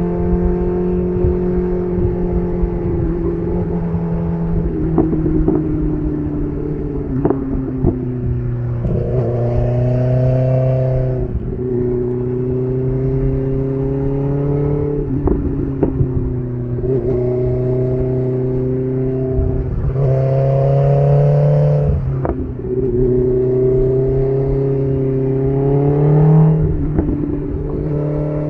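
BMW S1000RR's inline-four engine running through an SC Project titanium exhaust while riding, its pitch stepping up and down several times with throttle and gear changes.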